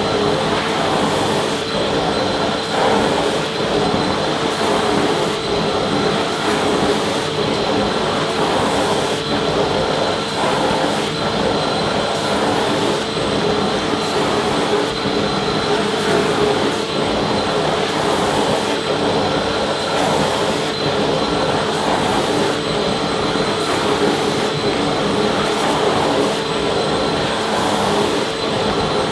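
Vacuum cleaner running steadily: an even rushing noise with a constant hum and a high whine from its motor, holding level without change.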